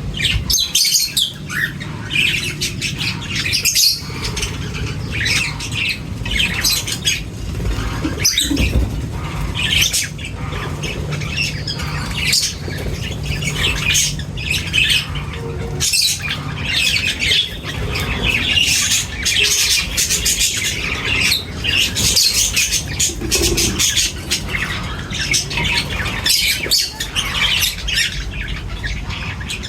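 A group of birds squawking and chirping continuously, many short harsh calls overlapping, over a steady low rumble.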